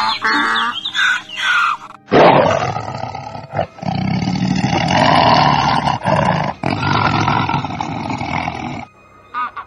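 A tiger roaring: a loud, rough, drawn-out growl of about seven seconds with a few short breaks, starting about two seconds in after a brief stretch of higher, wavering sound.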